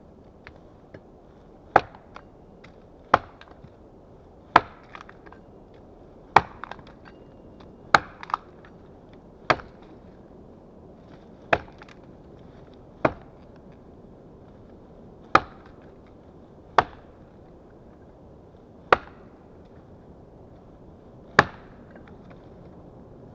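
Small axe chopping wood: about a dozen single, sharp blows, one every one and a half to two and a half seconds, each with a brief ring.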